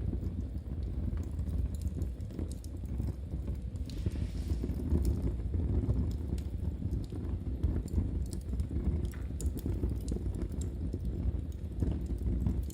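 Knitting needles tapping and clicking in an irregular patter over the low, steady rumble and crackle of a wood fire in a fireplace.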